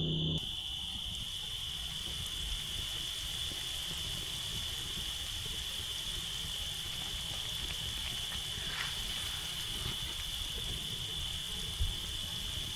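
A steady, unbroken high-pitched drone of insects calling outdoors, over an even hiss, with a faint click and a soft thump near the end.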